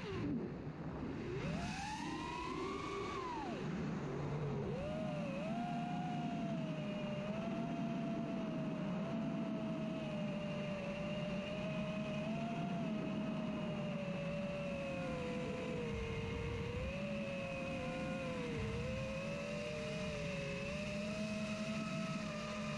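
FPV racing quadcopter's motors and propellers whining, the pitch following the throttle: a sharp rise and fall about two seconds in, then a steadier whine that wavers up and down.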